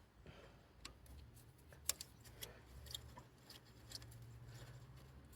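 Faint, scattered metallic clicks and taps, a few seconds apart, from a spanner undoing the injector pipe fittings on a diesel engine, over a low steady hum.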